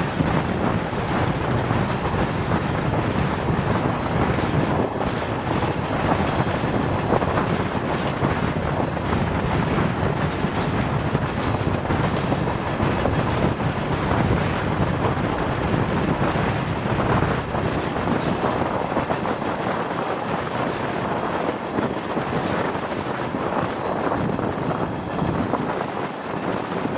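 DR1A diesel multiple unit running along the line, heard as a steady rumble of engine, wheels and track, with some wind noise on the microphone.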